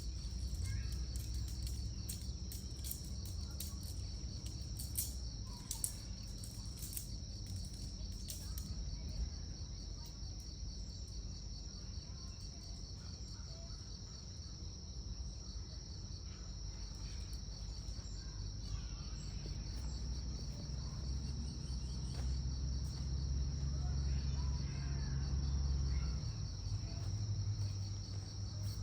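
Crickets trilling steadily in a continuous high chorus. Underneath is a low rumble that swells about two-thirds of the way through, and a few sharp clicks come in the first third.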